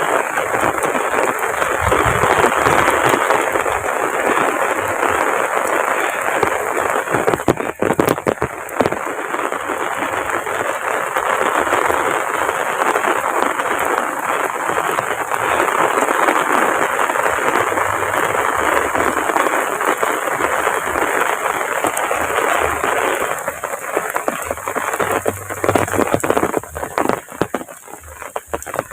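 Heavy rain pouring down: a dense, steady hiss of rain on surfaces. About three-quarters of the way through it thins, and separate drop hits stand out more.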